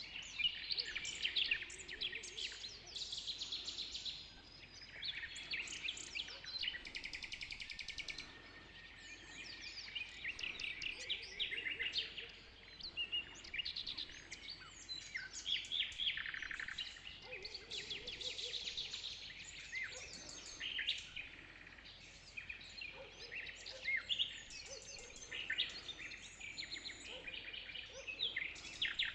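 Dawn chorus of many songbirds singing at once: overlapping chirps, rapid trills and short whistles, rising and falling in loudness.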